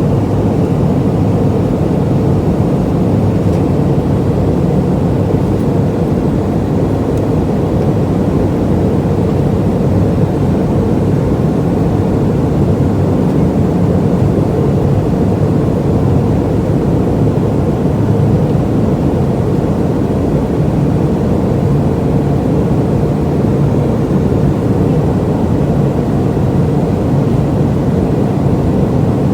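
Steady cabin noise inside an MD-88 airliner: its rear-mounted Pratt & Whitney JT8D turbofans running at power, with a low hum under an even rush of sound.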